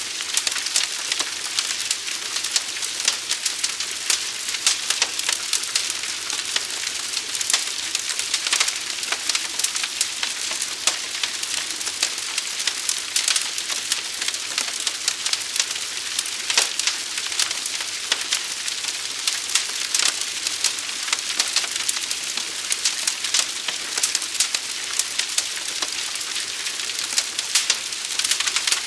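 Forest fire burning: a dense, steady crackle of many sharp pops and snaps over a continuous high hiss.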